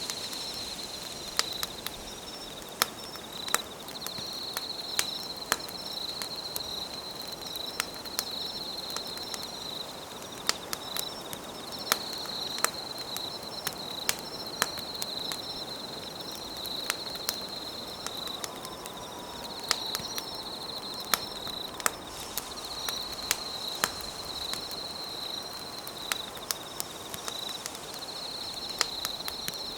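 Campfire crackling with sharp, irregular pops, over night insects trilling high in repeated phrases about a second long.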